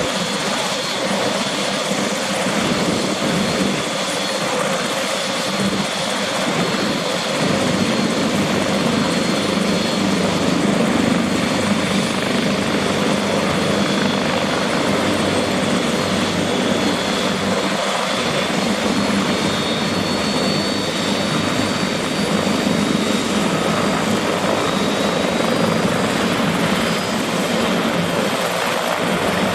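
Helicopter's turbine engine and rotor running steadily, with a thin high whine over the rotor noise.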